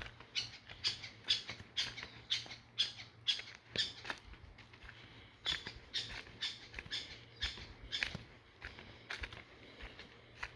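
Footsteps walking on a dry forest trail, about two steps a second, pausing briefly midway and then going on.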